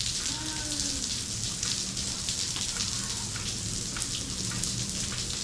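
Artificial rain pouring steadily in an indoor rain room: a dense, even hiss of falling water with a steady low hum underneath.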